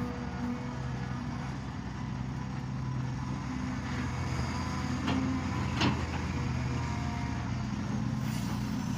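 Heavy earthmoving machine's diesel engine running steadily, with a few sharp knocks about four to six seconds in.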